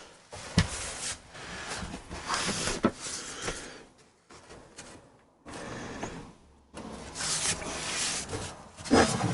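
Scraping and rubbing with a few sharp knocks, from particle board floor panels being handled and worked into place, broken by short pauses.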